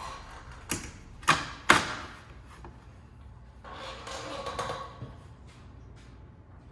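Three sharp knocks within the first two seconds, then a noisy rush lasting about a second.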